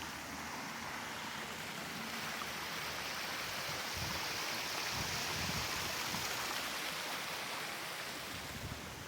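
Steady rushing hiss, swelling a little midway and easing off near the end, with some low rumbling underneath.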